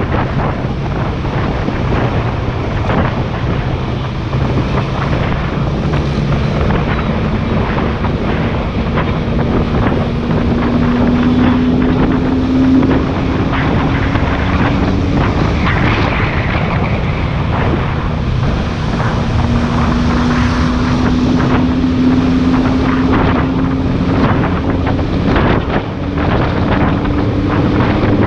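Lamborghini Huracán's V10 with an Fi aftermarket exhaust running on the move, its note climbing slowly twice, under heavy wind noise on the microphone.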